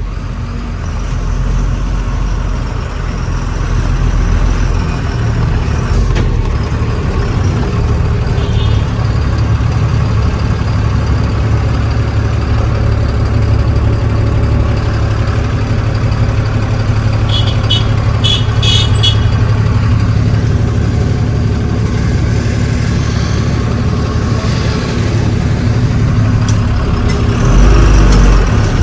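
Truck engine running steadily under way, with a quick string of short, high beeps a little past halfway.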